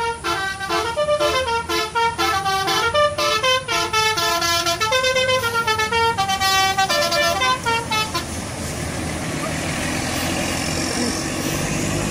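Sinar Jaya coach's multi-tone telolet horn playing a quick melody of short stepping notes for about eight seconds. Then the horn stops and the bus's engine and road noise run on steadily as it pulls away.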